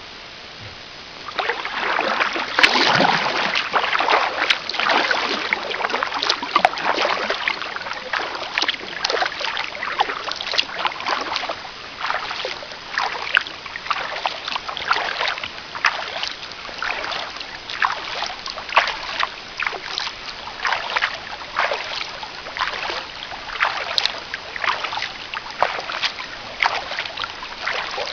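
Kayak paddle dipping and splashing in the water, stroke after stroke, with drips between the strokes; the paddling starts about a second in.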